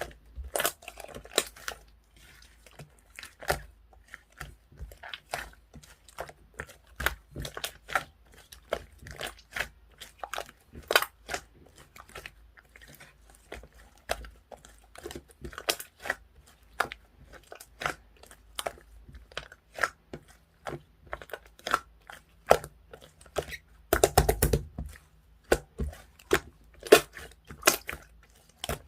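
Clear slime being pressed and squeezed by hand, giving sticky clicks and small pops at an irregular pace. A dense run of crackling comes a little before the end.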